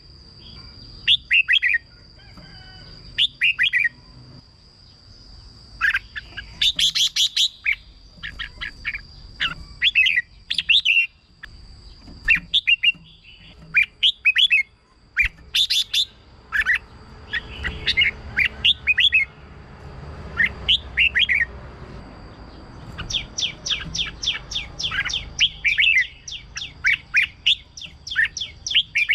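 Red-whiskered bulbul singing short whistled phrases again and again, with a fast run of quick repeated notes near the end. A thin steady high tone sounds behind much of it.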